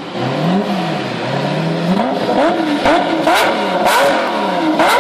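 Lamborghini Murciélago V12 engine being revved in a series of blips, the pitch rising and falling each time, the blips coming quicker and higher after about two seconds. Several sharp cracks come out between the later blips.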